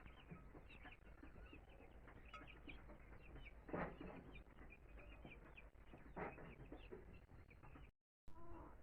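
Domestic hens clucking faintly in short, scattered calls, with two louder short sounds about four and six seconds in.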